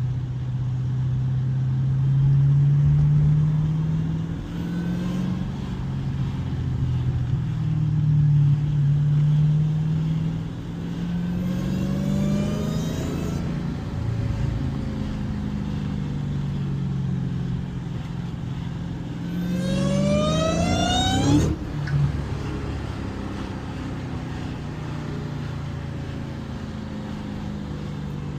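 2015 Dodge Challenger Hellcat's supercharged 6.2-litre HEMI V8 driving through the gears of its manual gearbox. The revs rise several times, climbing hard about twenty seconds in, then drop off sharply at the shift and settle to a lower steady note.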